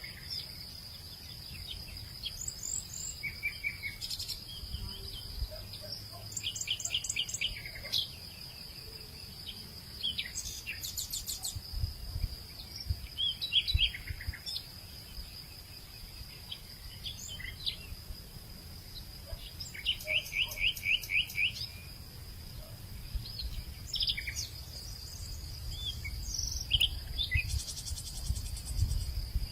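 Hillside nature ambience in the late afternoon: several birds calling and trilling in short chirps and quick repeated notes, over a steady high-pitched insect drone, with low wind rumble.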